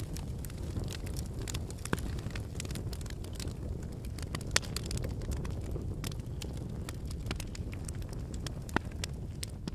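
Wood campfire burning, with a steady low rush of flames and frequent sharp crackles and pops from the burning logs, a few louder pops standing out.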